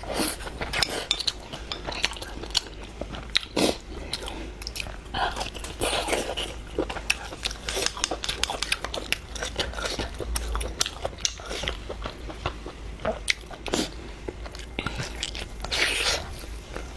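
A person chewing and biting food close to the microphone, with a dense, irregular run of short clicks and crunches.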